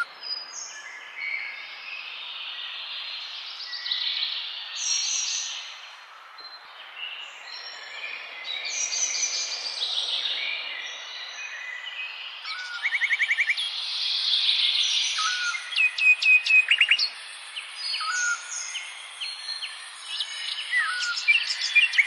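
Several birds chirping and calling over one another, with short sweeping notes and a fast trill partway through and again at the end, over a steady background hiss.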